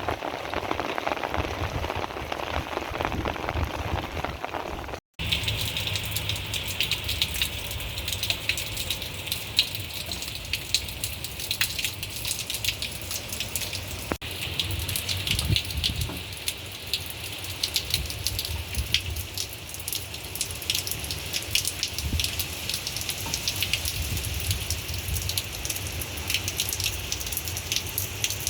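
Rain falling steadily, a dense patter of many drops hitting surfaces, broken by a brief gap about five seconds in.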